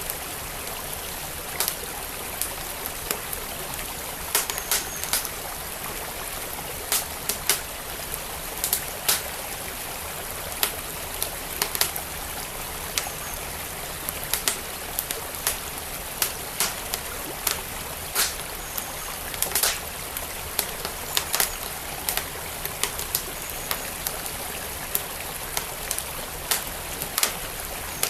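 Wood fire crackling, with sharp irregular pops about once or twice a second, over the steady rush of a flowing stream.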